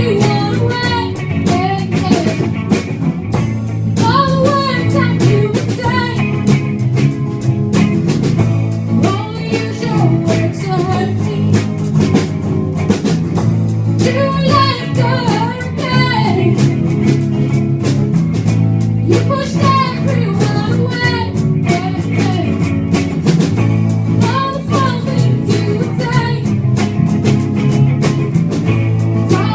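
A band playing a song: a singer over guitar and drum kit.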